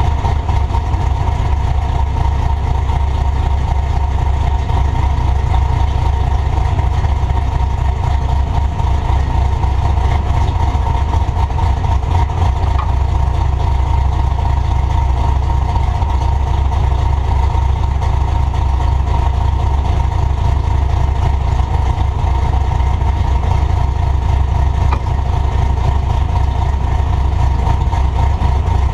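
Truck engine and exhaust running steadily, heard from a camera mounted on the back of the truck: a constant loud low rumble with no clear revving or change in pitch.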